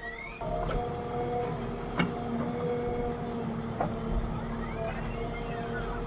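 Engine of heavy machinery running steadily, growing louder about half a second in. A pitch rises and falls near the end, with a few sharp knocks along the way.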